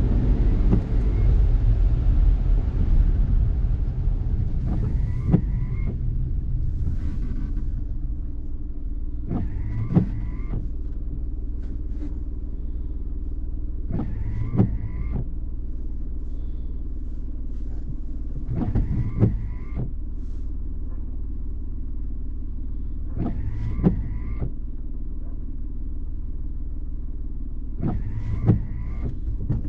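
Car running on a wet road, heard from the cabin as a steady low rumble. A windscreen wiper on an intermittent setting sweeps about every four and a half seconds, each sweep a brief rubber squeak across the glass with a click.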